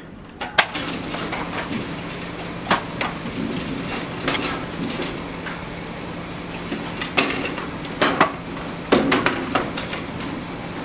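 Irregular knocks and clanks of hands and tools working on a rolldown shutter being fitted, with a steady low hum underneath from about a second in.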